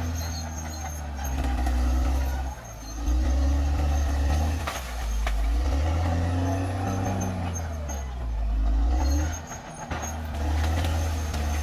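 Caterpillar D6R XL bulldozer's diesel engine working, its revs rising and falling, with brief dips about two and a half seconds in and again near the end. A few sharp knocks sound over it.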